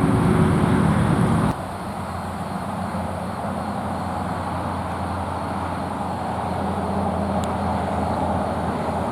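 Steady hum of distant road traffic. For the first second and a half a louder, lower vehicle engine hum lies over it and cuts off suddenly.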